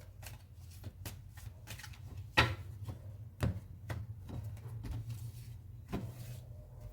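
Tarot cards being handled and laid on a table: a run of light flicks and taps, with three sharper knocks as cards are set down, over a steady low hum.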